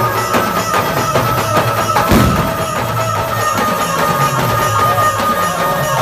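Dhumal band music: a held melody line over steady drumming, with a heavier drum hit about two seconds in.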